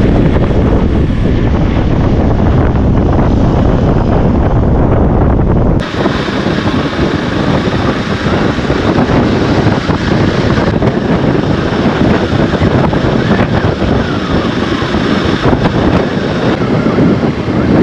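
Wind buffeting the microphone of a moving motorbike, over the bike's engine running. The sound changes abruptly about six seconds in.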